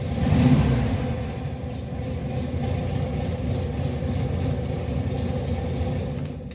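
Air-cooled Volkswagen Beetle flat-four engine idling shortly after a cold start, with a brief rise in revs about half a second in, then running evenly until the sound stops abruptly near the end.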